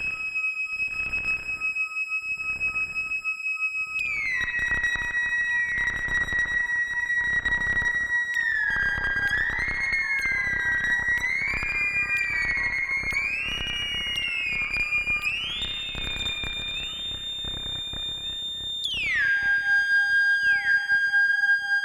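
Moog Sub Phatty analog synthesizer playing a high, whistling single-note lead that glides from note to note. It climbs in steps, then slides sharply down near the end. Each note trails echoes and reverb from the tape echo and reverb pedals.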